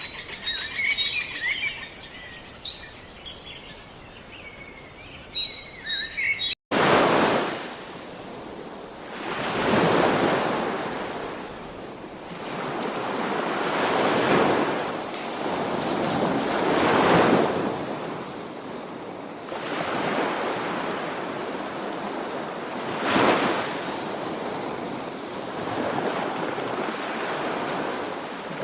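Small birds chirping for the first few seconds; then, after a sudden break, sea waves washing ashore, each one swelling and falling away every three to four seconds.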